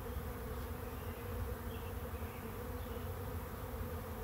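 A honey bee swarm humming steadily as it arrives at a swarm trap, many bees buzzing together in a continuous drone.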